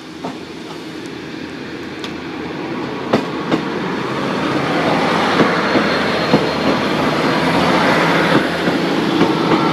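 Three-car diesel multiple unit train (a Class 156 with a Class 153) approaching and running over a level crossing. The engine rumble and wheel clatter grow steadily louder, with sharp clicks of wheels over rail joints every second or so.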